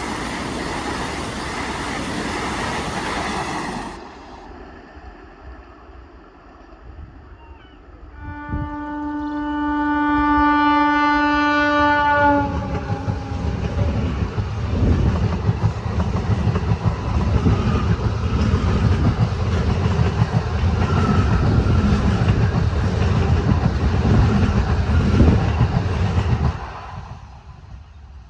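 Passing trains at a level crossing. A train horn sounds once, held for about four seconds. Then a train rumbles by with its wheels clattering over the rail joints, and the noise drops away sharply near the end. Before the horn there is a burst of loud train noise that stops abruptly.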